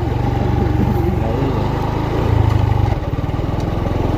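Motorcycle engine running steadily while riding. It gets a little louder just past two seconds in and eases off about three seconds in.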